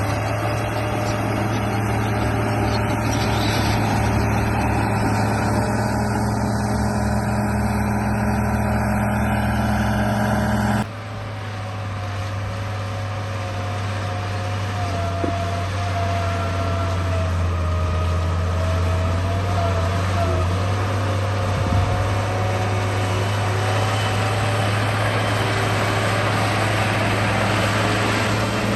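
RC bulldozer running with a steady, engine-like drone. The sound changes abruptly about eleven seconds in, and after that a wavering whine comes and goes.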